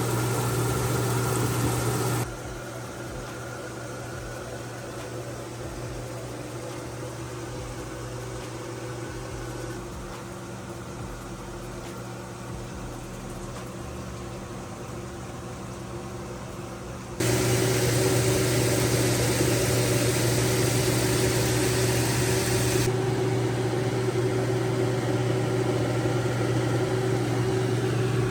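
A steady low machine hum with a strong low tone and a hiss over it, which jumps suddenly quieter and louder a few times.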